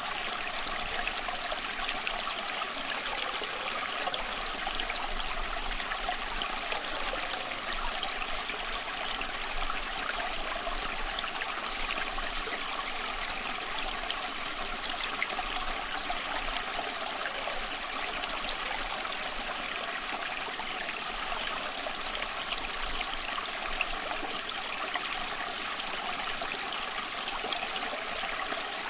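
Stream water running over stones, a steady babbling and trickling.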